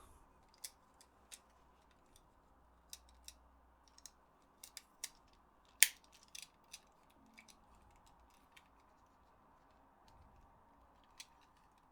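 Scattered small clicks and taps of plastic controller parts being handled and fitted during DualShock 4 reassembly, irregular and light, with one sharper click about six seconds in.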